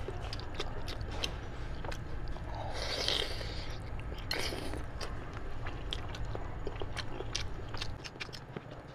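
Close-up eating sounds of meat being bitten and chewed off a cooked sheep's head: many quick wet mouth clicks and smacks, with two short sucking sounds about three and four and a half seconds in.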